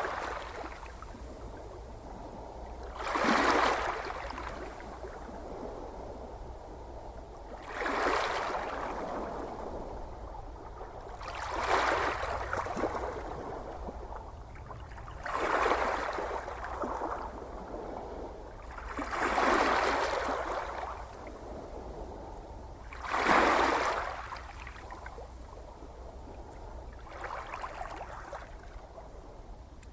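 Ocean waves breaking on a shore about every four seconds, each a brief rush of surf over a steady low wash; the last one, near the end, is weaker.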